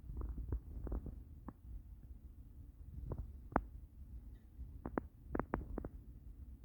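Scattered, irregular crunches and snaps of footsteps in snow, over a steady low rumble of wind on the microphone.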